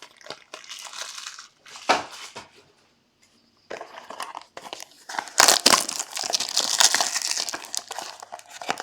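Plastic packaging crinkling as it is handled. It comes in short scattered bits, goes quiet for about a second midway, then turns dense and continuous over the last three seconds.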